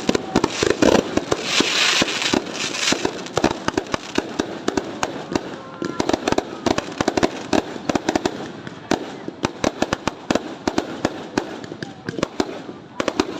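Fireworks going off in a dense, irregular string of sharp bangs and crackles, heaviest in the first few seconds and thinning somewhat after.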